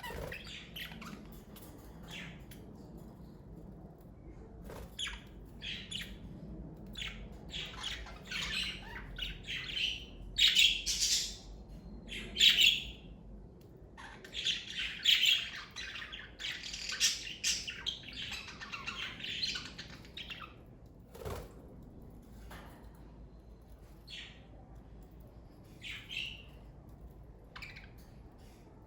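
Pet budgerigars chirping and squawking in short, high calls. The calls come thick and loud through the middle, then thin out to occasional single chirps near the end.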